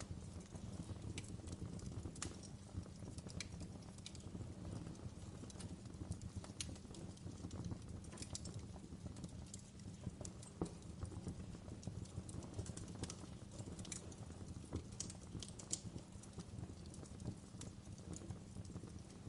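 Wood fire crackling in a fireplace: irregular sharp snaps and pops over a low, steady rumble of the burning logs.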